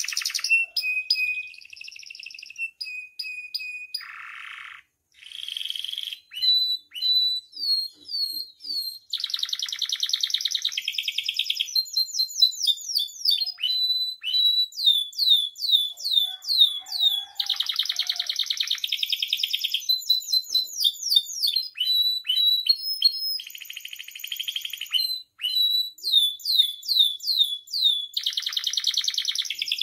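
Domestic canary singing a long, varied song: series of quick, sharp falling notes and fast buzzing trills of about two seconds each, repeated several times.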